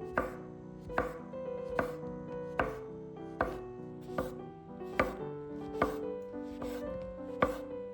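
A kitchen knife chopping on a cutting board in slow, even strokes, about one every 0.8 seconds, with soft background music.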